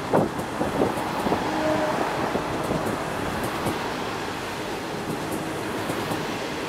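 A passenger train of 25G coaches rolling past: a steady rumble of wheels on rail, with a run of sharp knocks in the first second and a half and a brief whine about a second and a half in.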